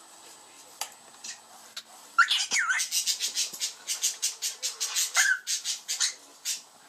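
Cockatiel chattering: from about two seconds in, a rapid run of short, harsh chirps, about five a second, with a couple of brief whistled notes that slide up and down in pitch.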